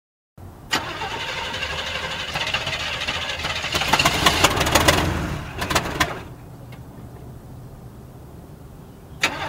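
A car engine starts and runs loudly with some sharp knocks for about five seconds, then settles to a quieter steady run. It gets loud again with a sudden burst near the end.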